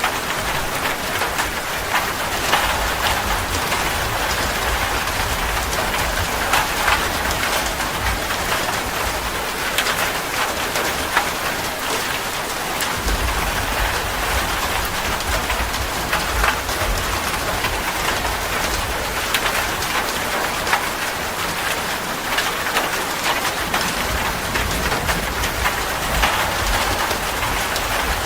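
Steady heavy rain falling, a dense hiss full of fine drop ticks, with a low rumble that swells and fades underneath several times.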